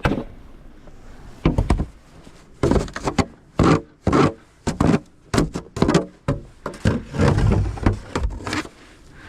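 An irregular series of sharp knocks and thuds, close together and varying in strength.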